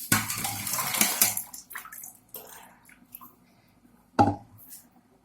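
Hot water with boiled raw banana slices poured into a kitchen strainer: a loud splashing rush for about a second and a half, then drips and small clicks, with one sharp knock about four seconds in.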